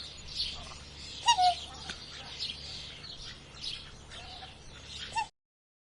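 Birds chirping repeatedly in quick, high notes, with a louder, lower, falling call about a second in and again near the end. The sound cuts off suddenly shortly before the end.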